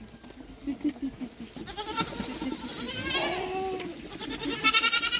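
Goats bleating, several quavering calls one after another, the loudest near the end.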